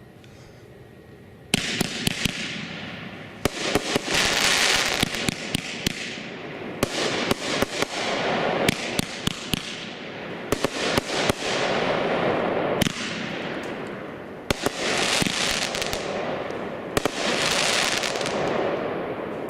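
Shogun 'Agitator' consumer fireworks cake firing, starting about a second and a half in: repeated volleys of sharp shots, each followed by a loud hiss that swells and fades over a couple of seconds.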